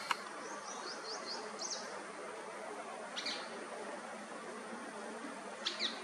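Short, high-pitched bird calls: a quick run of five or six sharp notes about half a second in, a single call around three seconds, and a pair of calls near the end, over a steady background hiss.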